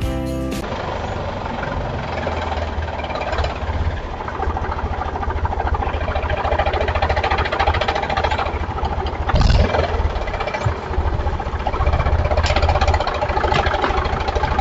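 Small motor of a homemade toy tractor and chaff cutter model running, with a steady low hum and uneven rattling. A brief louder knock comes about nine and a half seconds in.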